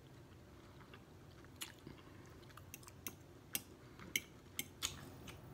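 A person chewing food close to the microphone: faint, with scattered wet mouth clicks and smacks that begin about one and a half seconds in.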